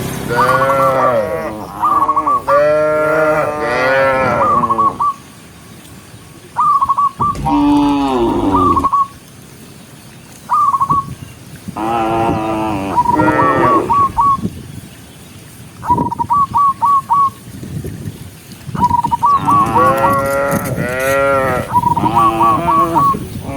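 Cows mooing, several long calls that bend in pitch, coming in four or five bouts with quieter gaps between. A quick series of short, high chirps keeps returning between and over the moos.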